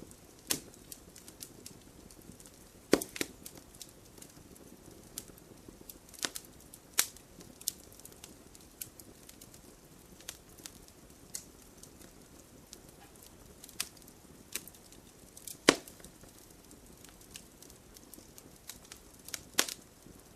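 Campfire crackling: a soft steady hiss under scattered sharp pops and snaps, with a few louder pops about three seconds in, near sixteen seconds and near the end.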